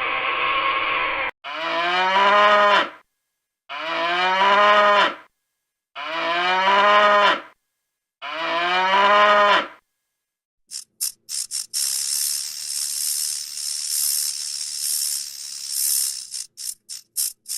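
Cow mooing four times, the same drawn-out call repeated about every two and a half seconds. From about eleven seconds in, a high hissing, crackling noise starts and stops in stutters.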